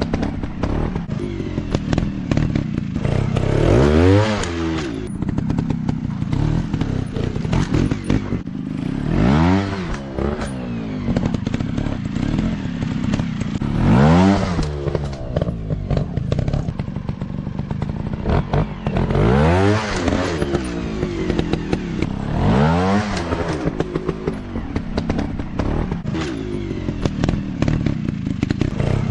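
Dirt bike engines running, with the throttle blipped about every five seconds. Each time the engine note rises and then falls back to a crackly, rough running sound.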